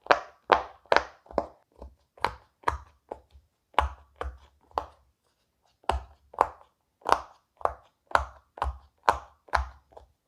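Silicone pop-it fidget toy bubbles being pressed through one after another, each giving a short sharp pop, about two a second, with a pause of about a second halfway through.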